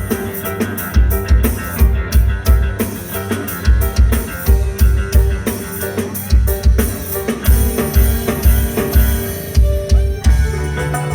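Band music with a heavy kick drum about twice a second, drum kit and guitar, played loud through a sound system that is being tested.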